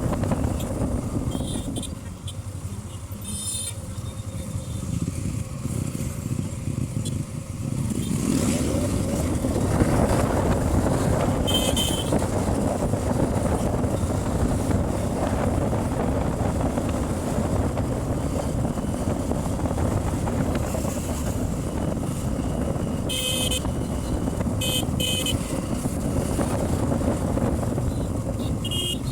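Hero Xtreme 125R motorcycle's single-cylinder engine running on the road with road and wind noise. It gets louder about eight seconds in. Vehicle horns beep briefly several times, a cluster of them about two thirds of the way through.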